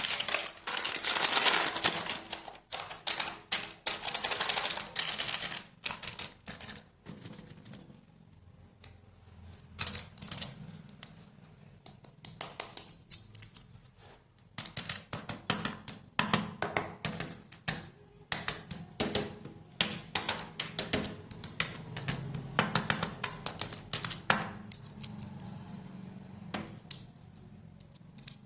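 Close-up handling of candy and chocolate packaging: rapid crinkling and clicking of wrappers and hard sweets in dense bursts, with a quieter stretch in the middle.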